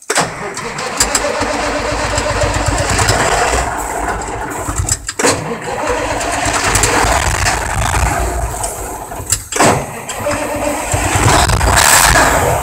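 Old truck engine being cranked over on its starter for a cold start, in three long stretches broken by two short pauses, about five and nine and a half seconds in.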